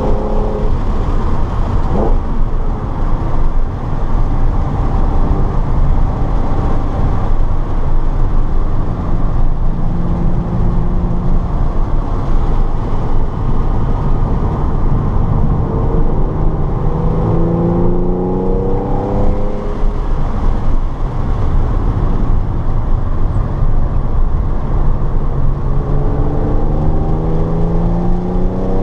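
Car engine under load during a track session, its pitch climbing through the revs around the middle and again near the end. Steady road and wind noise run underneath.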